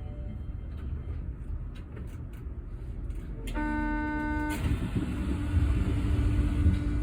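Osaka Metro New Tram, a rubber-tyred automated guideway train, with a low rumble; about three and a half seconds in an electronic buzzer tone sounds for about a second, then the rumble grows louder and a steady hum comes in as the train gets moving.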